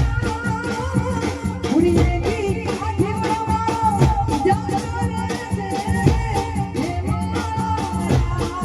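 Live band music: a steady percussion beat under a sustained melody line, with a voice singing.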